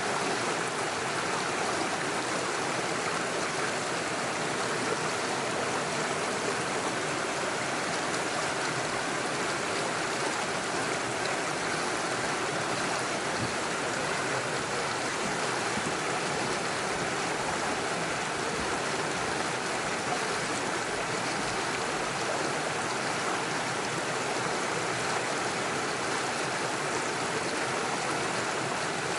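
Small rocky stream rushing and splashing over stones and little waterfalls, a steady, even flow.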